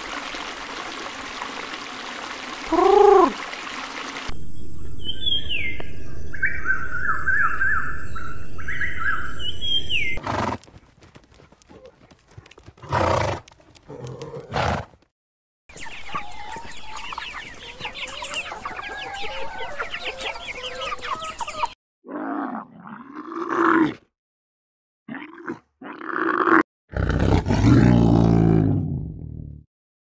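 A string of short animal-sound clips joined by abrupt cuts: bird chirps and calls in the first part, young chicks peeping rapidly in the middle, and a loud, deep call near the end.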